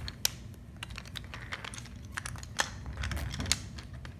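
Wooden toy engines and trucks being handled and put back on the track: scattered light clicks and knocks, with one sharper knock about two and a half seconds in.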